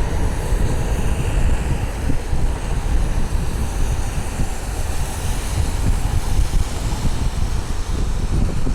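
Wind buffeting the microphone in gusts, heavy in the low end, over a steady high hiss.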